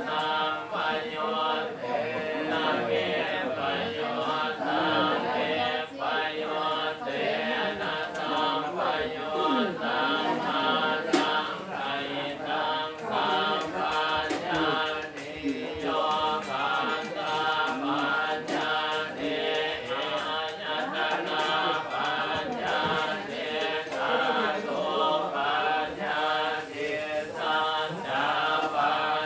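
A group of voices chanting Pali Buddhist verses in unison, a continuous rhythmic recitation.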